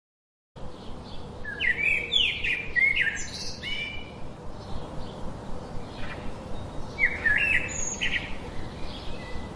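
Songbirds chirping over a steady outdoor hiss, starting abruptly about half a second in. Quick rising and falling chirps come in clusters around two seconds in and again near eight seconds.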